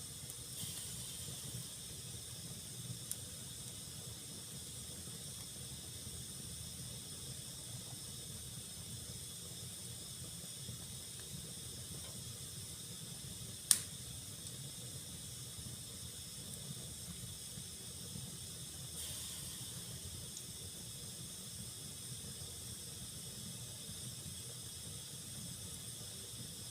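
Wood fire burning in a fireplace: a steady hiss with a low rumble underneath, a couple of small crackles, and one sharp pop about halfway through.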